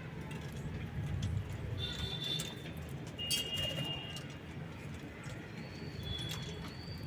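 Pigeons cooing, with a few short, high chirps over a steady low rumble.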